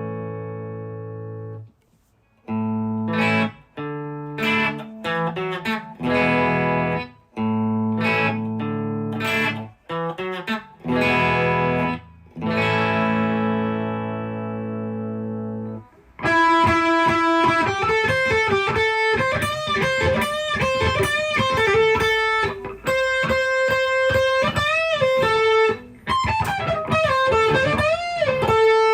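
Gretsch hollow-body electric guitar played through its bridge pickup. First come chords, struck and left to ring with short breaks between them. About halfway in it changes to a quicker single-note lead line with string bends.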